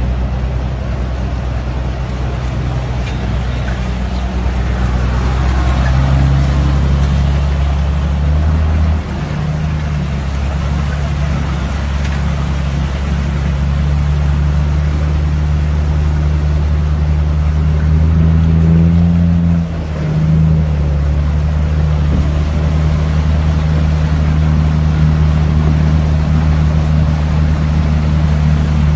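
A motor vehicle's engine running steadily as a low hum, its note shifting about nine seconds in and again around twenty seconds in.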